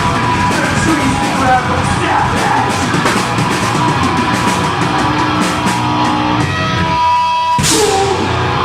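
Deathgrind band playing live: loud distorted guitars and drums in a dense wash with yelled vocals. About seven seconds in, the drums drop out and sustained guitar tones ring on, broken by one sharp crash hit near the end.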